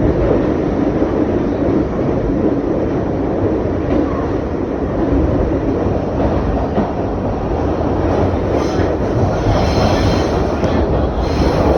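R62A subway car running along the track with a steady loud rumble of wheels on rails. A high wheel squeal comes in about eight and a half seconds in and again near the end.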